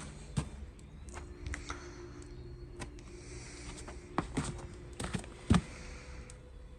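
Scattered knocks and clinks of tools and metal parts being handled while a tractor wheel hub is worked on, over a faint steady hum. The loudest knock comes about five and a half seconds in.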